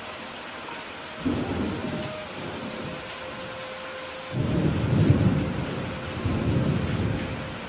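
Steady rain with two rolls of thunder: one starts suddenly about a second in and rumbles for a second or so, then a louder, longer rumble begins about four seconds in and dies away near the end.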